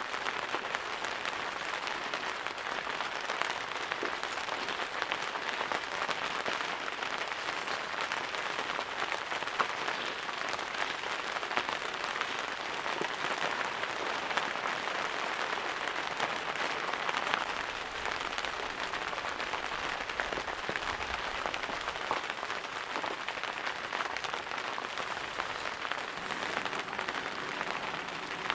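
Steady rain, a dense crackle of countless drops hitting a surface.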